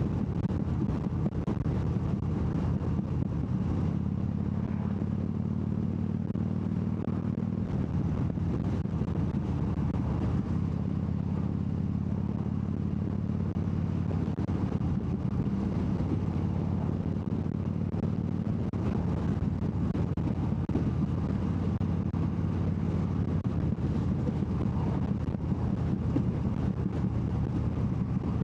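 Harley-Davidson Dyna Wide Glide's 1690 cc (103 cubic inch) V-twin running steadily under way, its note shifting slightly a couple of times.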